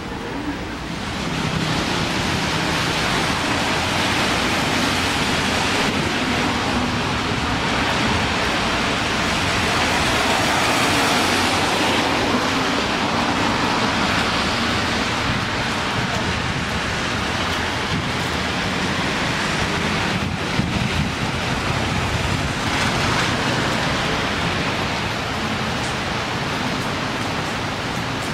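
Steady rain falling on wet pavement and street, an even hiss that grows a little louder about a second and a half in.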